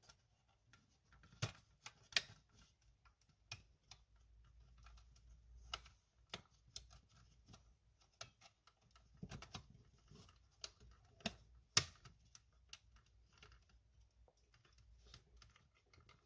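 Faint, irregular clicks and taps of small plastic parts and tools being handled while working on a cordless stick vacuum, with a few sharper clicks among them.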